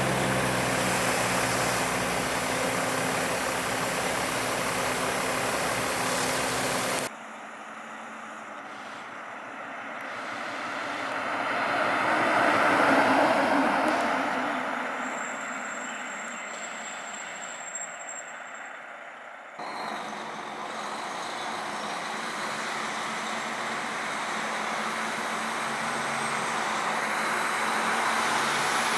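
Emergency vehicles driving past, with engine and tyre noise. The sound changes abruptly twice. In the middle stretch one vehicle passes by, the noise swelling to a peak and then fading away.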